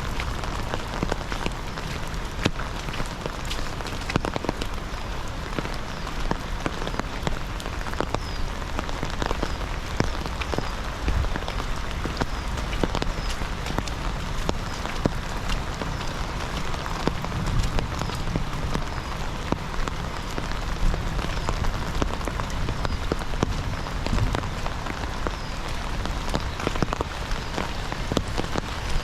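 Heavy rain falling steadily, with a dense patter of individual drops hitting the surfaces close by.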